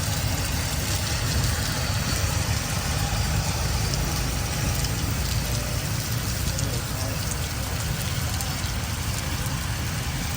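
Steady rain falling, an even hiss with a strong low rumble underneath.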